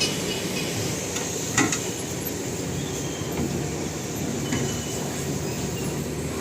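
A BMW's engine running with a steady low rumble, holding an even pitch with no revving. A single sharp click comes about a second and a half in.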